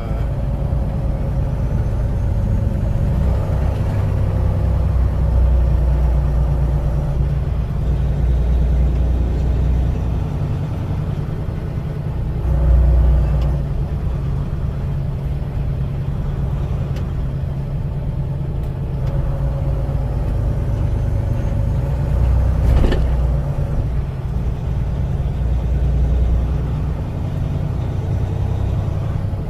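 Truck engine running and road noise while driving in slow traffic, a steady low rumble with the engine's pitch drifting up and down. There is a single sharp click about two-thirds of the way through.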